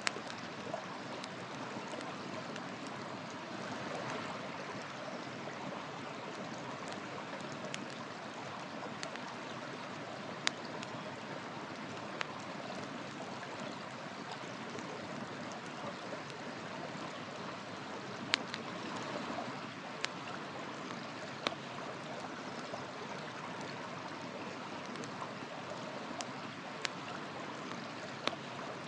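A river flowing steadily, with a wood fire crackling over it and a handful of sharp pops from the burning wood scattered through.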